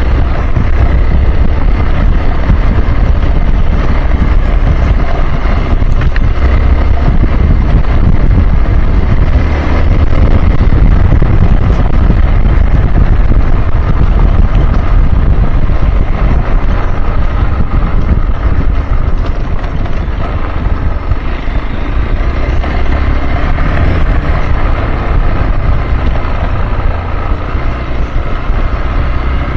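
Hero XPulse 200 Pro's single-cylinder four-stroke engine running steadily under way, with wind buffeting the microphone.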